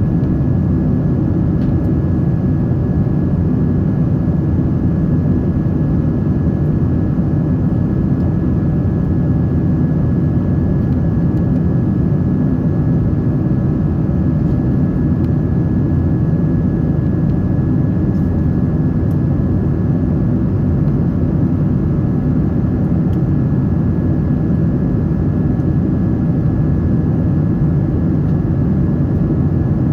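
Steady cabin noise of a Boeing 777-300 in flight, heard from inside the passenger cabin: an even, deep rush of airflow and jet engines, with a faint steady high tone over it.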